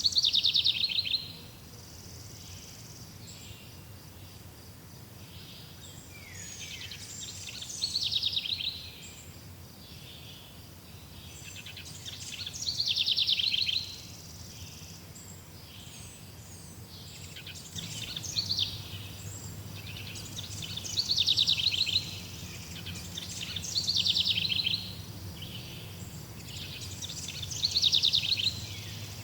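Songbirds singing, each song a short, rapid trill repeated every few seconds. A low steady hum comes up about two-thirds of the way in.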